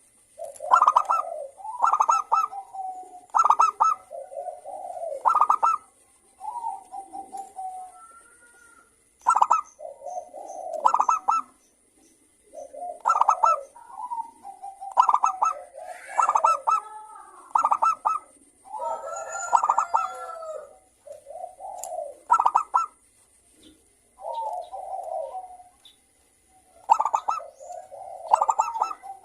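Several zebra doves (local perkutut) cooing and answering one another in repeated short, stuttering phrases with brief pauses between them.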